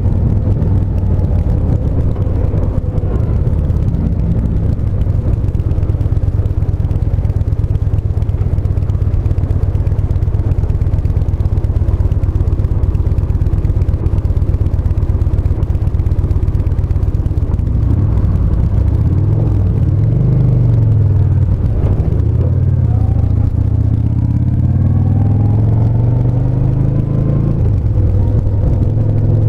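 Yamaha SCR950's air-cooled V-twin running steadily while riding at low town speed; about two-thirds of the way in, its pitch rises and falls several times as the bike accelerates and changes gear.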